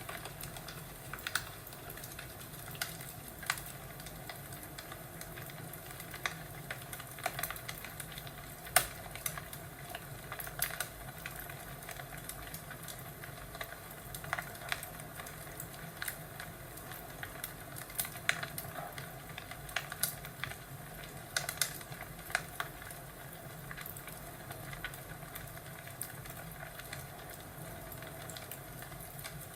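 Wood fire crackling in a fireplace: irregular sharp pops and snaps over a steady low hiss, with one louder pop about nine seconds in.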